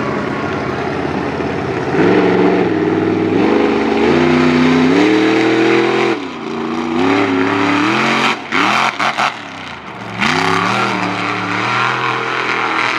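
Monster truck engine revving loudly, its pitch climbing and dropping several times in a row.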